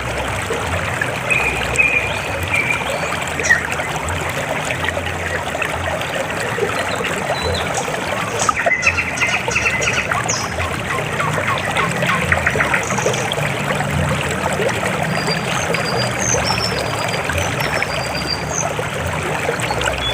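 River water flowing with a steady trickling rush. A few short high chirps sound over it, about two seconds in, again around nine to eleven seconds, and near the end.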